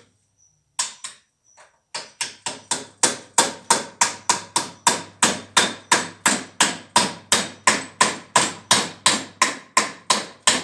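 Hammer blows on metal: two single strikes, then steady hammering at about three blows a second, driving a new bearing into a truck cab torsion-bar mount.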